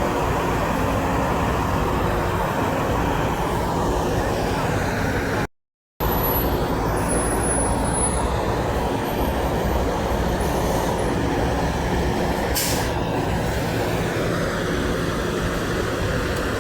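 Semi truck diesel engine running with a steady rumble, and a brief sharp air-brake hiss about three quarters of the way through. The sound cuts out completely for about half a second a third of the way in.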